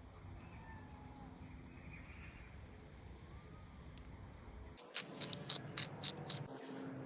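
A quick run of about seven sharp clicks, starting about five seconds in and lasting about a second and a half, over a low steady background.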